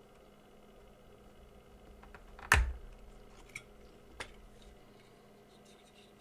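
Small objects handled on a workbench: one sharp knock about two and a half seconds in, then two lighter clicks, over a faint steady hum.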